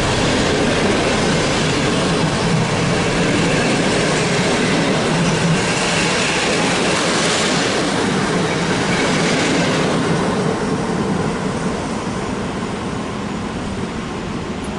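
SM42 diesel shunting locomotive running and rolling along the track during shunting moves, its engine and wheels steady and loud, growing slightly quieter over the last few seconds.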